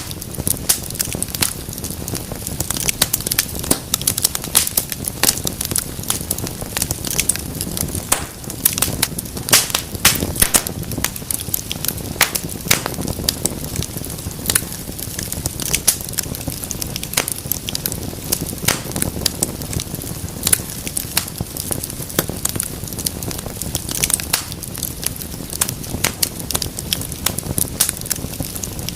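Wood fire crackling in a fireplace: a steady low rush of flames under many sharp pops and snaps.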